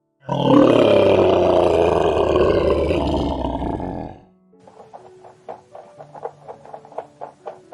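A large animal gives one long, loud roar lasting about four seconds, which stops suddenly; light background music follows.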